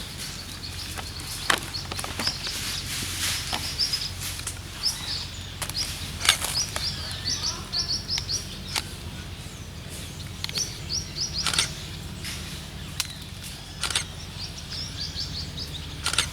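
A bird chirping in repeated quick runs of short high notes, over a steady low hum, with scattered sharp clicks throughout.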